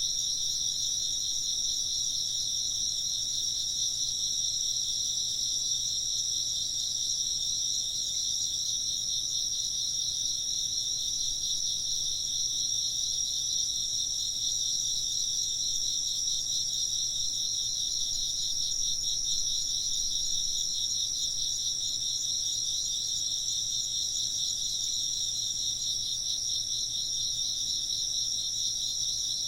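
Insects chirping in a dense, unbroken chorus at two high pitches, the lower one pulsing rapidly. No wind chime rings.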